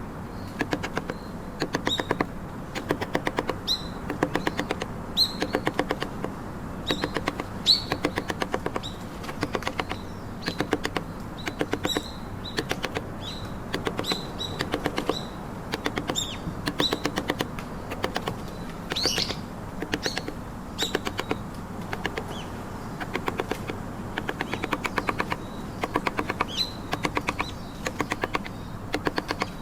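Wood-carving chisel struck by a mallet in quick runs of sharp taps, several a second, cutting into trembesi wood, each run lasting about a second with short pauses between.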